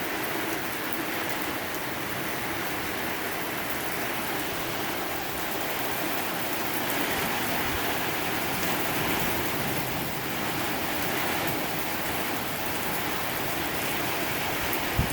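Thunderstorm rain falling steadily, an even hiss of rain on the ground and surfaces around, with wind behind it.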